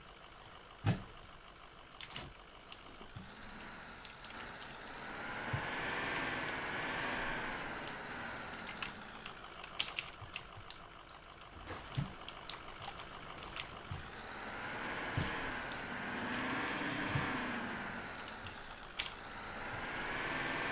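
Old Ford dump truck's engine running, revving up and back down twice in long swells, with scattered sharp clicks and knocks throughout.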